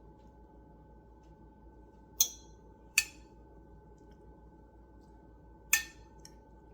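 Three sharp clinks of kitchen utensils and dishware knocking together, the first two under a second apart and the third about three seconds later, followed by a faint tap.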